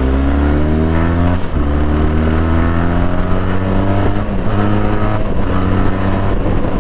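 Benelli TRK 502's parallel-twin engine under hard acceleration. The engine note climbs steadily and drops briefly at each upshift, about one and a half, four and a quarter, and five and a quarter seconds in.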